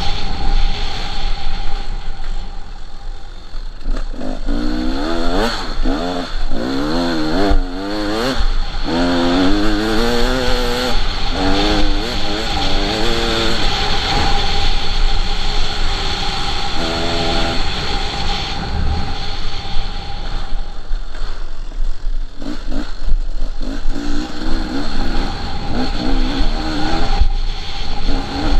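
KTM 300 two-stroke dirt bike engine being ridden, revved up and down many times in quick succession as the rider works the throttle and gears, with steadier running in between.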